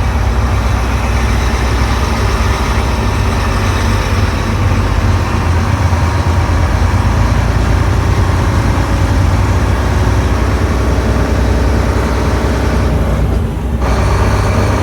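Heavy truck engine running with a steady low rumble, dipping briefly near the end before carrying on.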